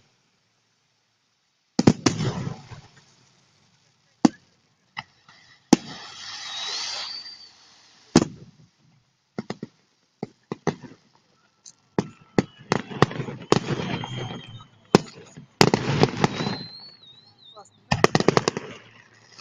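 Fireworks display: sharp bangs of shells bursting, several with long runs of crackling after them, and a couple of short wavering whistles. The bangs start about two seconds in.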